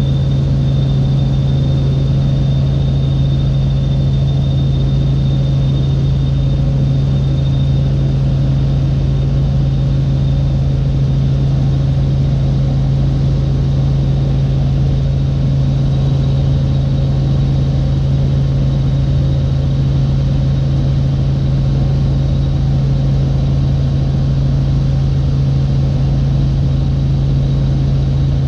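Helicopter cabin noise in flight: a loud, steady engine and rotor drone, with a thin high whine running over it.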